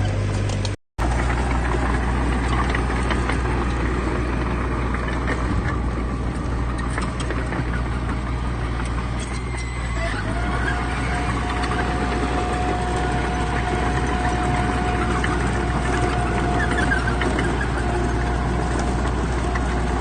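Heavy diesel construction machinery (bulldozers and dump trucks) running with a steady low rumble. The sound cuts out for a moment about a second in, and a steady high whine comes in about halfway through and holds.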